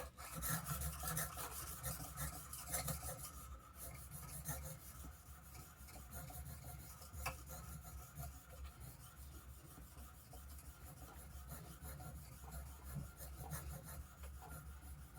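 Steel plane blade being stroked back and forth on a soft Arkansas sharpening stone: a steady, quiet rubbing and scraping in repeated strokes. This is the honing and polishing stage after raising a burr on a coarser stone.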